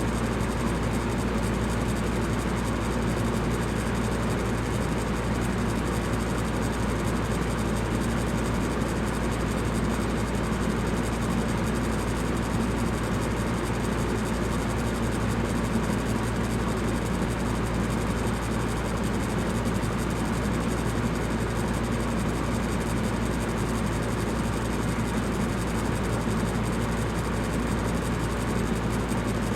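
Electric fan running steadily: an even airy whoosh with a low hum and no change.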